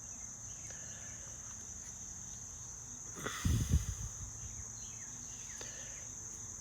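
Crickets trilling steadily at a high pitch, with a dull low thump about three and a half seconds in.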